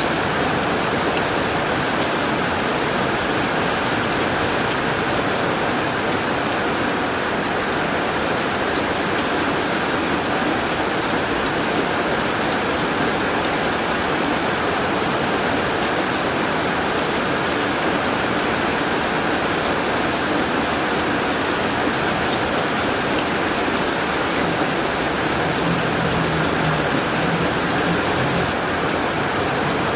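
Heavy rain falling steadily on a tin roof, a dense even patter with scattered sharper drop ticks.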